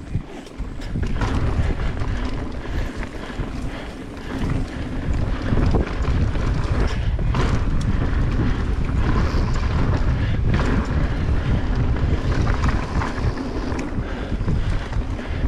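Wind buffeting the microphone as a mountain bike rolls fast along a dirt trail, the tyres and bike rumbling underneath, with a couple of sharp knocks about halfway through.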